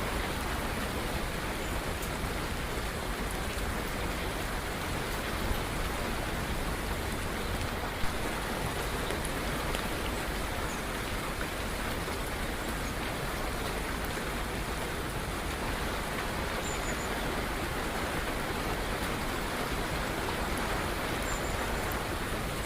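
Steady rain falling, an even hiss, with a single sharp tick about eight seconds in.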